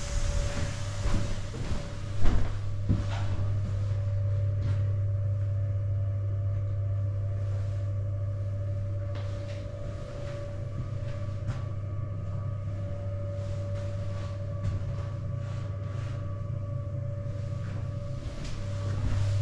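Steady low electrical hum with a faint higher steady tone from a standing electric commuter train's onboard equipment, with a single sharp knock about two seconds in.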